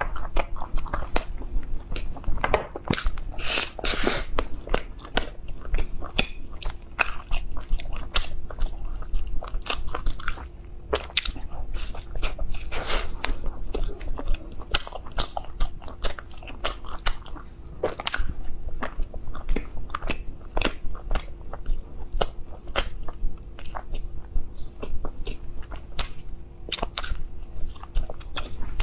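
A person biting and chewing soft cream-filled ice cream bread buns, with many quick mouth clicks and smacks.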